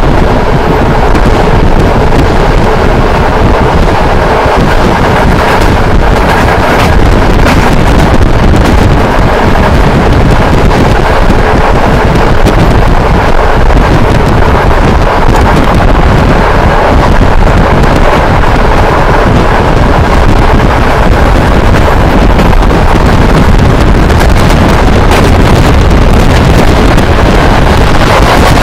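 Steady running noise of a moving passenger train, heavily overlaid by wind buffeting the microphone, loud and unbroken throughout.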